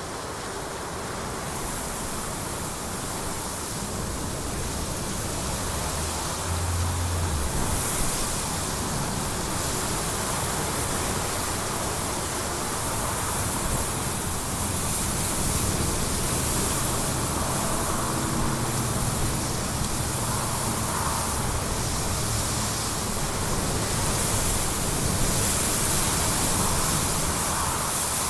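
Jet aircraft engine noise: a steady, hissing rush that builds gradually louder.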